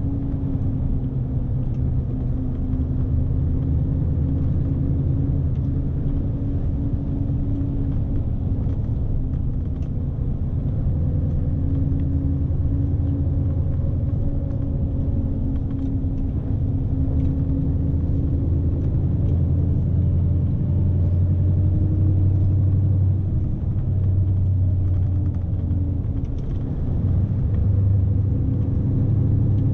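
Scania S520 truck's V8 diesel engine running steadily under a heavy load of about 44 tons, heard from inside the cab as a low drone whose pitch drifts slowly up and down, over a constant low rumble.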